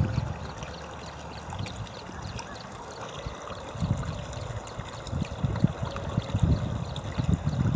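Rainwater flowing and trickling, with irregular low rumbles that grow stronger in the second half.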